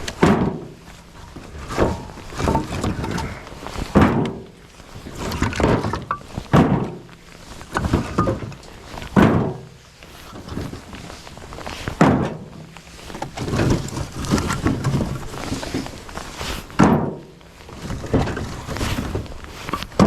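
Split firewood knocking and thudding as pieces tumble from a raised dump trailer bed and are handled, with a sharp knock every second or two.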